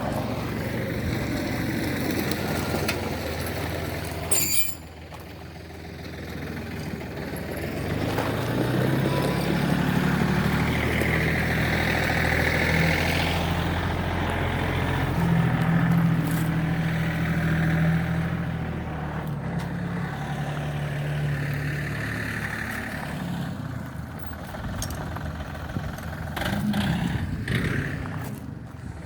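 A motor vehicle's engine running, growing louder from about eight seconds in and fading again over the last several seconds, after a single knock near the start.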